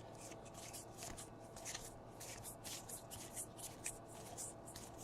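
Baseball trading cards being flipped through one at a time: faint, quick swishes of card sliding off card, about four a second.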